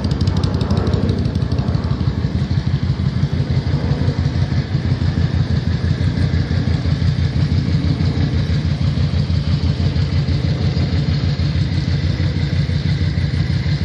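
Yamaha V Star 650 (XVS650) bobber's air-cooled V-twin idling steadily through Vance and Hines Cruzer exhaust pipes, with an even, lumpy low pulse.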